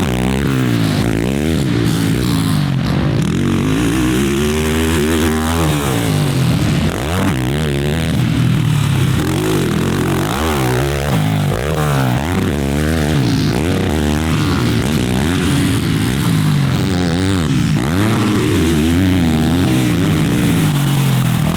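Yamaha 450 four-stroke motocross bikes revving hard on a track, engine pitch climbing and dropping over and over as the riders accelerate, shift and back off for corners.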